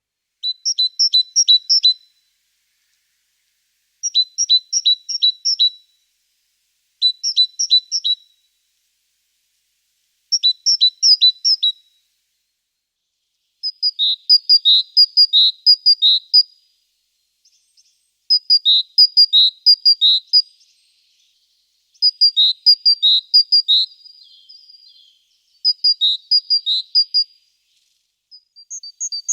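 A songbird singing short phrases of rapid, repeated high notes, one phrase every three to four seconds, with the notes changing pattern about halfway through.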